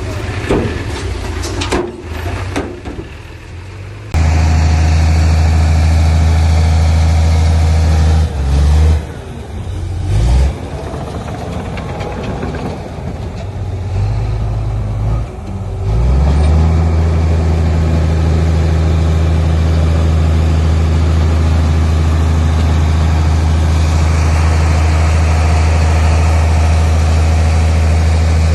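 Diesel engine of heavy construction machinery running with a steady deep drone. It dips and surges in pitch and level several times in the first half, as the engine speed changes under load, then holds steady for the second half.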